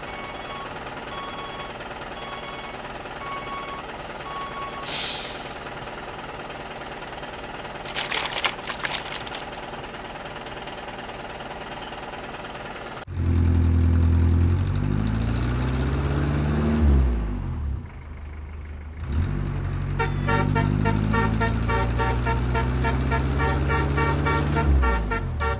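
A truck engine sound that comes in suddenly about halfway, running loud and low with its pitch sliding up and down as it revs. Before it, a steady background hum with a few short beeps, a brief whoosh and a short rattle.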